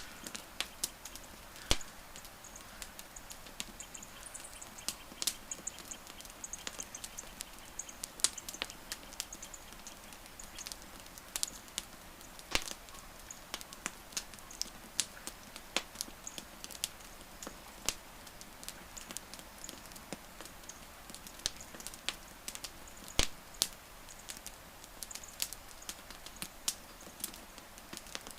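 Wood fire crackling: irregular sharp pops and snaps, a few of them much louder, over a steady soft hiss.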